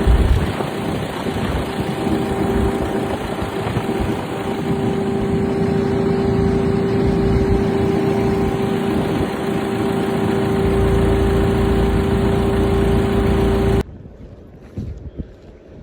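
Steady engine drone with a constant hum over a rushing noise, which cuts off suddenly near the end to much quieter wind noise on the microphone.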